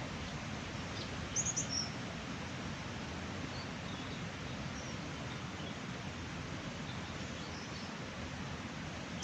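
Small birds chirping in short high calls, a quick cluster about a second and a half in and a few fainter ones later, over a steady outdoor rush of background noise.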